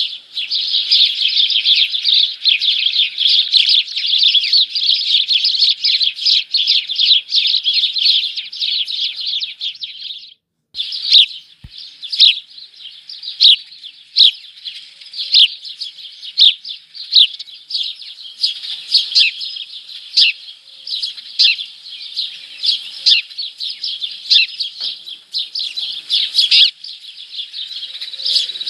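Small birds chirping: a dense, rapid stream of high chirps for about ten seconds, a brief cut in the sound, then sparser single chirps.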